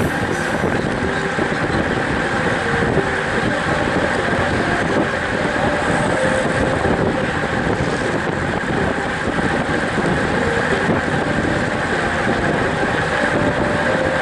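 Steady rush of strong wind buffeting the microphone while moving along the track, mixed with road noise.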